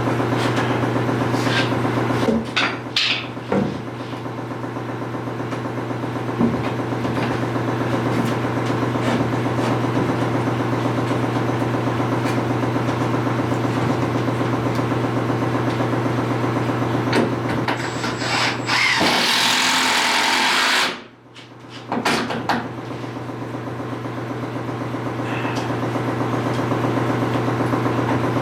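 A motor hums steadily, with a few knocks. About two-thirds of the way through, a louder hiss lasts about two seconds; everything then drops out for a moment and the hum starts again.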